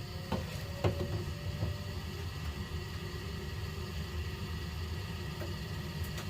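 Gas boiler running with a steady low hum, with two knocks about a second in.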